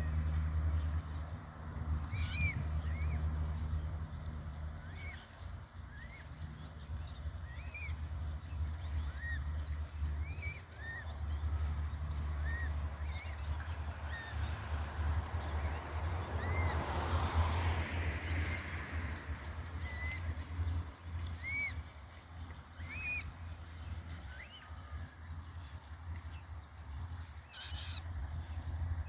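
Baby birds peeping over and over in short, high chirps, over a steady low rumble. A rushing noise swells and fades about halfway through.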